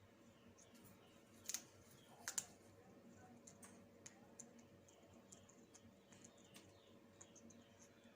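Faint clicking and snapping of an African grey parrot's beak working at neem leaves: a few louder snaps about one and a half and two and a half seconds in, then many soft scattered ticks.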